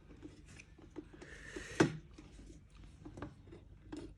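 Small clicks, scrapes and rubs of hand tools and metal kettle parts being handled, with a short hiss ending in one sharp click about two seconds in.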